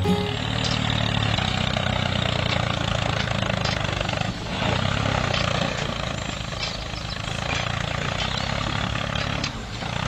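A small motor running steadily, with a brief dip about four seconds in.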